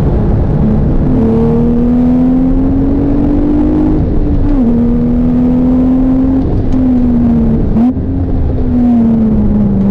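2017 Porsche 911 GTS's twin-turbo flat-six engine running hard under load, its note climbing slowly. It breaks briefly for a gear change about four and a half seconds in, dips again near eight seconds, then falls steadily as the car slows.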